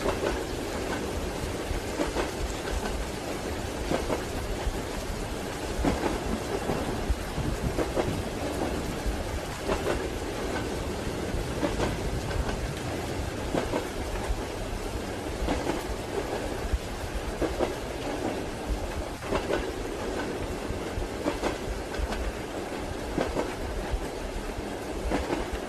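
Train wheels clacking rhythmically over rail joints inside a steady rolling rumble, with soft rain falling throughout.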